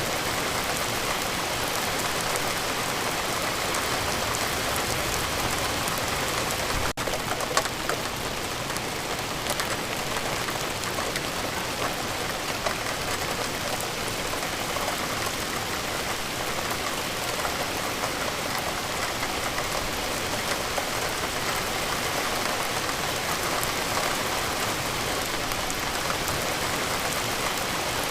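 Steady rain falling, a dense even hiss of drops, with scattered louder drop ticks. A brief break about seven seconds in is followed by a few sharper drops.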